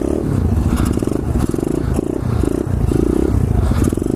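A 2015 SSR 125cc pit bike's single-cylinder four-stroke engine running near idle, revved in several short throttle blips about a second apart.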